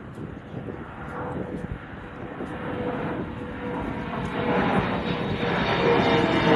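Jet airliner taking off at full thrust, its engine roar with a steady whine growing steadily louder as it climbs toward and over the listener.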